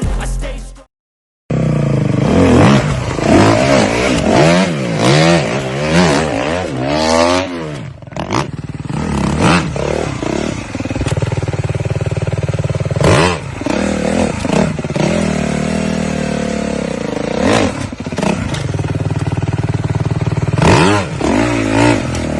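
Motocross dirt bike engines revving hard, the pitch climbing and dropping again and again with the throttle, with several sharp clattering knocks along the way.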